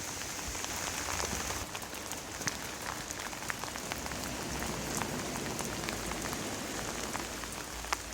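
Heavy rain falling steadily, with many sharp taps of single drops scattered through it.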